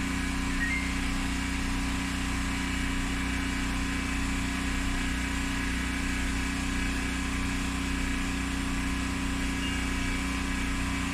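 Portable generator engine running steadily at a constant speed, an even drone that does not change.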